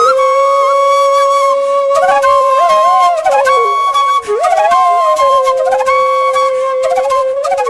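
Background flute music: one long held note, with short ornamented runs that bend and step in pitch above it from about two seconds in.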